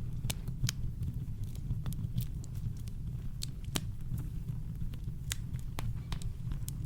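Campfire crackling: irregular sharp pops and snaps from burning wood over a steady, deep low rumble.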